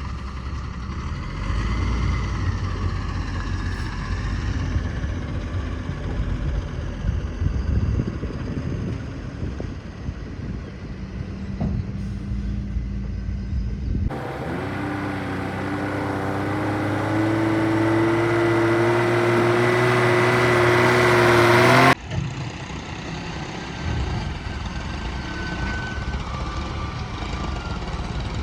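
Heavy diesel machinery running at a mud-loading site. About halfway through, a different clip cuts in in which an engine revs up steadily for about eight seconds, rising in pitch and loudness, before it cuts off abruptly and the steadier engine noise returns.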